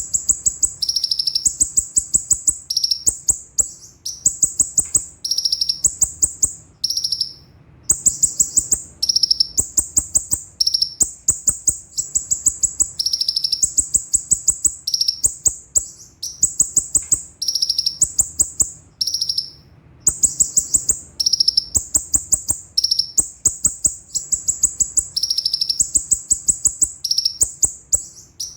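Van Hasselt's sunbird (konin, kolibri ninja) singing: very high-pitched phrases of rapid repeated notes, trills of fast notes coming one after another with brief pauses between them.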